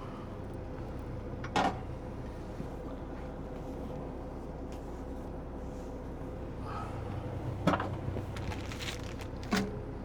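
A steady low drone with a faint constant tone, and three short knocks of things being handled, about one and a half, seven and a half and nine and a half seconds in.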